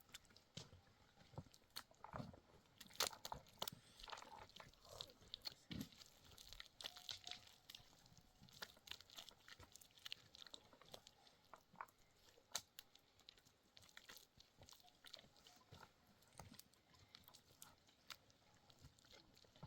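Faint, irregular small clicks and crunches, with a louder crunch about three seconds in and another past the middle.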